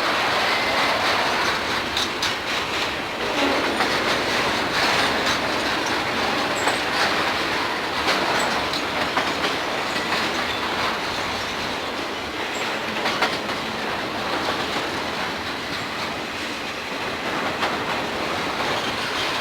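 Freight train rolling past, a steady rumble of cars with wheels clicking over the rail joints.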